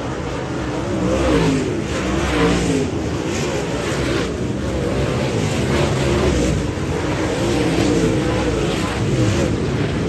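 Dirt-track modified race car engine running hard, its pitch rising and falling again and again as it accelerates and lifts through the laps.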